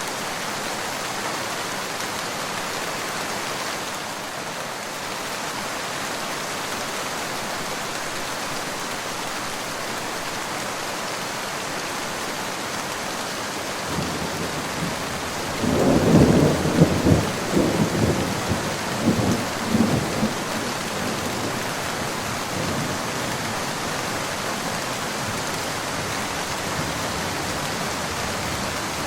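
Steady rain falling, with a roll of thunder about halfway through that swells, rumbles for several seconds and fades back into the rain.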